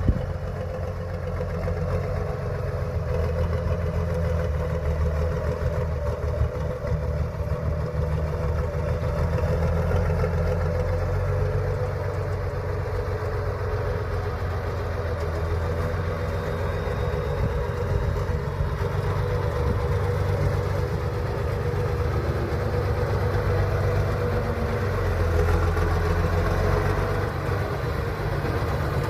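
Engine of a heavy six-wheel-drive trial truck running steadily at low revs.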